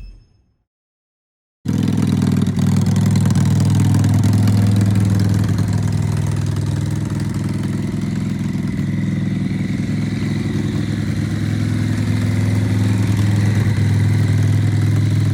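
Harley-Davidson V-twin engine of a custom chopper running steadily at idle, coming in abruptly about two seconds in after a brief silence.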